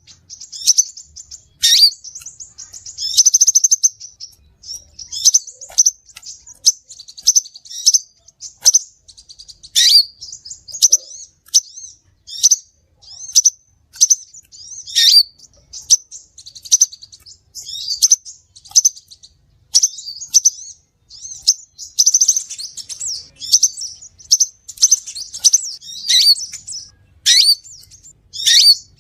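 Crimson sunbird (sepah raja) calling: a steady run of high, thin chirps and short twittering trills, roughly one to two a second, played as a bird-catching lure call.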